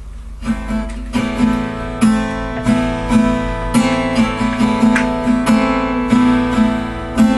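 Acoustic guitar playing the introduction to a song, starting about half a second in with chords struck roughly twice a second.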